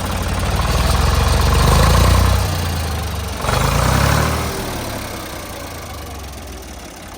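Old Ford tractor engine running, swelling in loudness twice in the first few seconds and then fading steadily. It has just been brought back to life after debris was cleaned from its fuel tank and lines and the lines were bled.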